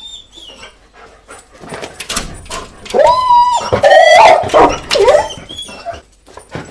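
A dog whining and crying: faint whimpers at first, then loud high-pitched cries about three seconds in, wavering in pitch, that die away near the end.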